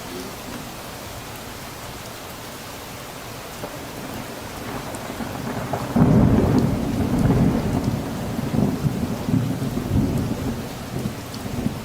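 Steady rain with a roll of thunder. A low rumble builds about a third of the way in, breaks into a sudden loud peal about halfway through, then keeps rolling in waves.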